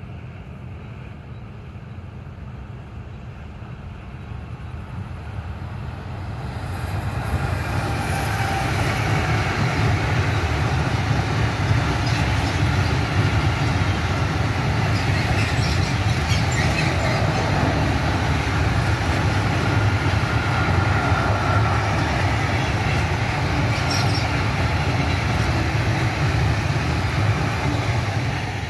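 Coal train hauled by two DB Cargo Class 185 electric locomotives, approaching and passing. Its rumble rises from about six seconds in, then the long line of hopper wagons rolls by on the rails with steady, loud wheel noise, which falls away as the last wagon passes at the end.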